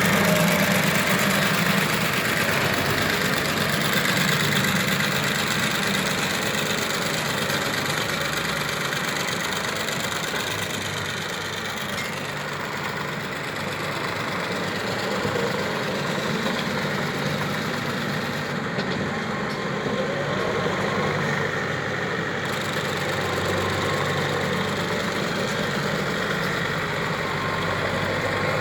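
Tractor engine running steadily, pulling a mounted crop sprayer, over an even hiss.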